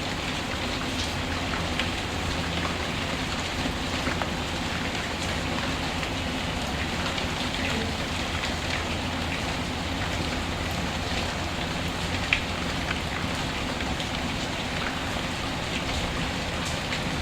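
Steady rain, with light scattered crackles from a wood fire in a fireplace and one sharper pop about twelve seconds in.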